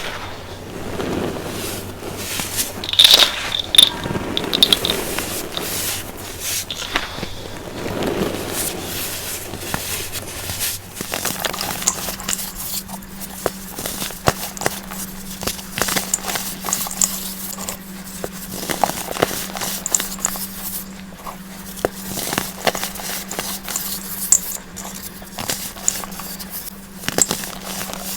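Crunchy, powdery baking soda being crushed and crumbled, a dense run of small crackles and scrapes.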